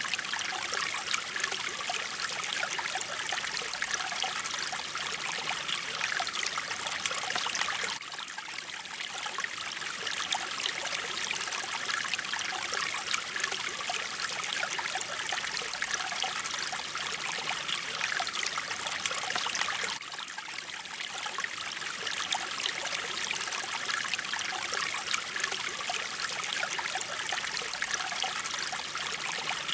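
Mountain stream water flowing and splashing in a steady, bright rush. It dips slightly in level about eight seconds in and again about twenty seconds in.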